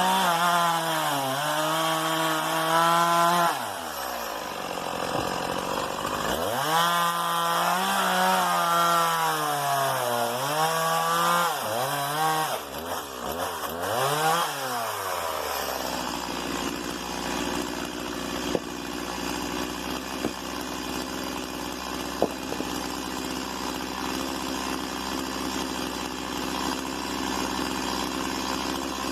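STIHL MS 170 two-stroke chainsaw at high revs cutting wood, its engine pitch dipping under load and recovering, easing off briefly and then revving again. About halfway through the revs fall away and the saw idles steadily.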